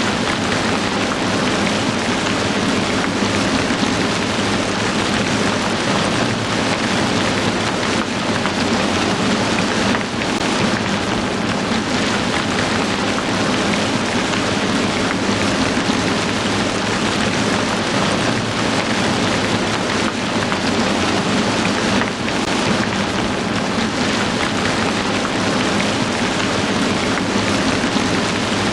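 Heavy rain falling steadily, a dense even hiss with no separate drops standing out, dipping briefly twice.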